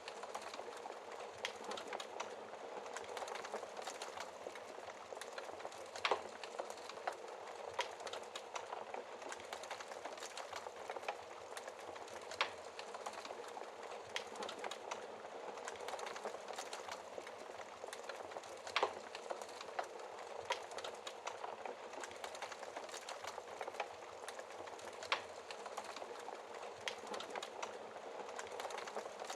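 Wood fire burning in an open fireplace, crackling steadily with a dense patter of small snaps and a louder pop about every six seconds.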